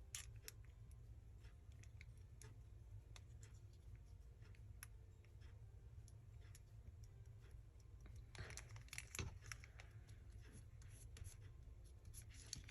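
Faint handling of paper craft pieces: scattered light taps and clicks, with a louder patch of paper rustling and scratching about eight and a half seconds in, over a low steady room hum.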